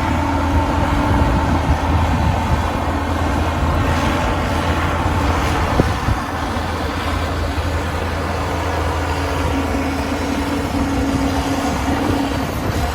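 Heavy diesel earthmoving machinery running steadily with a low engine rumble. There is a single sharp knock about halfway through.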